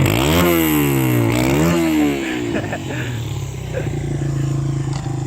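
Honda XR100 dirt bike's single-cylinder four-stroke engine revved twice: a long rise in pitch that drops back after about a second, then a shorter blip. It then settles back to a steady idle.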